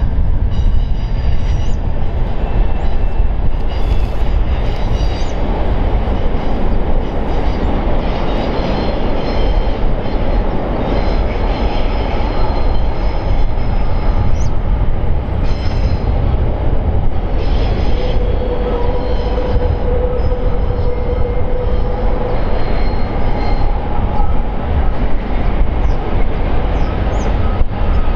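Container freight wagons rolling across a steel girder rail bridge: a steady, loud rumble with intermittent high wheel squeals, and one held squealing tone for a few seconds past the middle.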